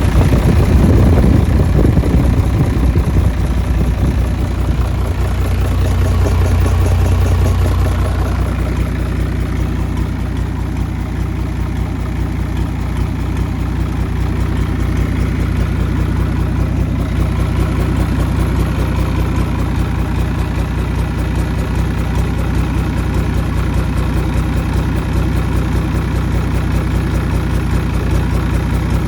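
Isuzu 6HE1 non-turbo inline-six diesel engine running, a little louder for the first several seconds and then settling into a steady idle.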